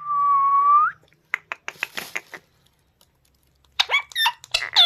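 Parrot whistling one held note lasting about a second, then a string of short clicks and chirps, and after a brief pause a quick run of squeaky, swooping chirps near the end.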